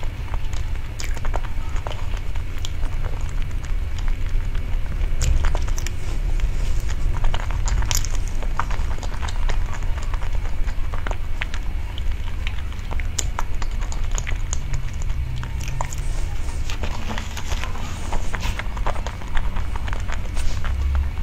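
Close-miked chewing and biting of soft cream cake: many small wet mouth clicks and smacks over a steady low rumble.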